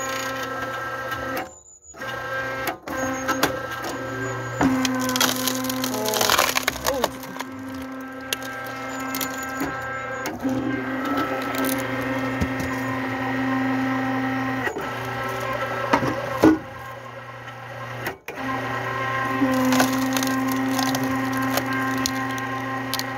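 Hydraulic log splitter running with a steady hum from its motor and pump; the pitch shifts while the ram is under load pushing through the log. Wood cracks and splits a couple of times.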